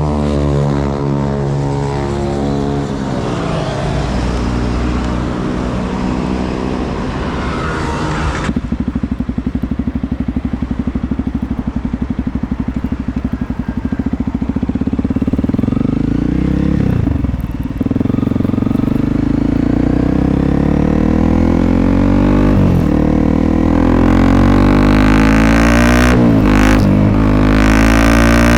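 2021 Honda CRF300L's single-cylinder four-stroke engine running through an aftermarket FMF Q4-style exhaust, heard on board while riding. The engine slows in the first few seconds and runs steadily at low revs for a while. It then revs up again over the last ten seconds, with short breaks in the rising pitch.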